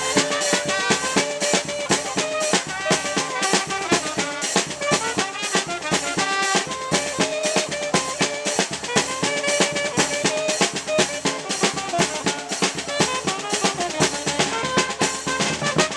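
Small street band (fanfarra) playing, snare and bass drum keeping a quick, steady beat under a pitched melody line.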